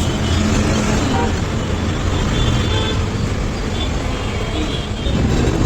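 Steady engine and road traffic noise, with faint voices in the background.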